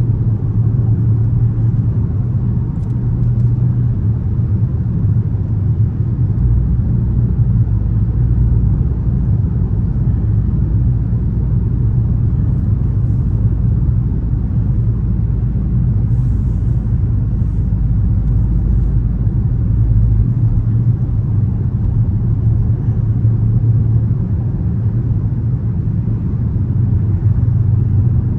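Dodge Charger R/T's 5.7-litre HEMI V8 running steadily under way, a deep drone with road rumble and no revving. An extra low rumble joins from about six seconds in and drops away at about twenty seconds.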